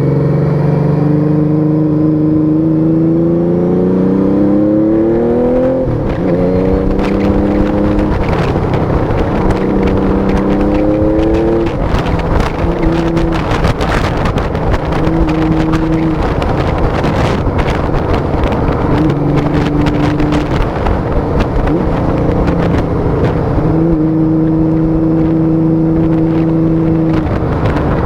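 Honda Valkyrie 1500's flat-six engine and exhaust under way, pulling up through the gears. The pitch climbs, drops sharply at a gear change about six seconds in, climbs again, then settles into steadier cruising. Wind noise over the microphone, heaviest in the middle.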